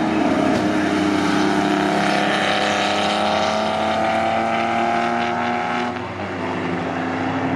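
Vintage racing car engines running hard on track, more than one engine note at once, one rising steadily in pitch as it accelerates and breaking off about six seconds in.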